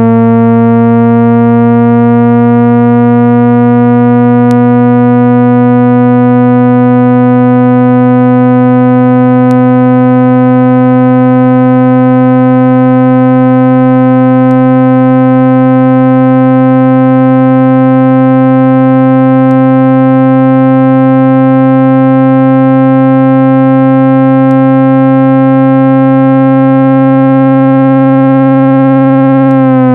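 Loud synthesized speaker-cleaning tone of 165 Hz, played to shake dust out of a phone speaker. It is a steady low hum with a higher tone and its overtones gliding slowly upward.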